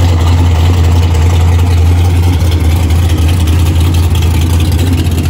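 Super Stock Dodge Dart drag car's V8 engine idling close by, a loud, steady low rumble with no revving.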